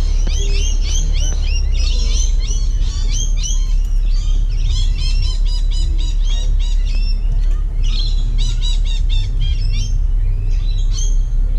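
Many small birds chirping busily and rapidly in overlapping calls, with short lulls partway through, over a steady low rumble.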